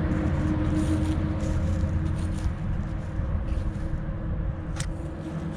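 A vehicle engine running steadily: a low rumble with a steady hum over it. There is one sharp click near the end.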